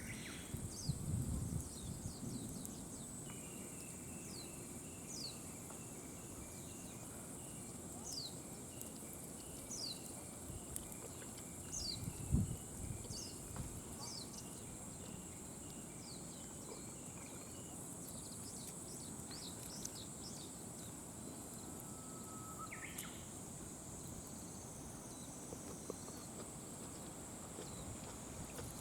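Insects chirping outdoors: a steady high-pitched trill, with a quieter pulsing call that runs through the first two-thirds and stops, and scattered short falling chirps. There are a couple of dull low thuds, one about a second in and one near the middle.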